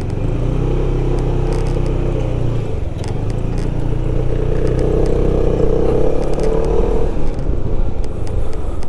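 WMoto RT3 motorcycle engine running under way, its pitch rising as it speeds up from about three seconds in, heard through a helmet-mounted microphone with low wind rumble and scattered clicks.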